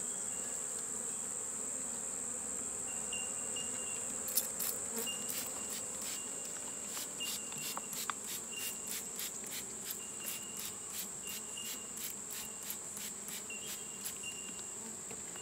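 Honeybees at an open hive humming low, under a steady high-pitched insect drone, with a run of rapid short chirps, about three a second, starting about four seconds in and stopping near the end.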